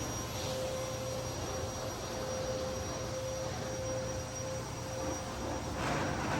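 Rubbermaid backpack vacuum running steadily: a constant motor whine over a rush of air. A brief louder rush of suction comes near the end.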